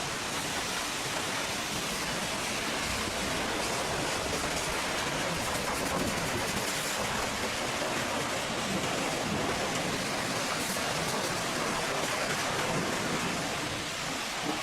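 Pressure washer spraying water in a steady hiss, without a break.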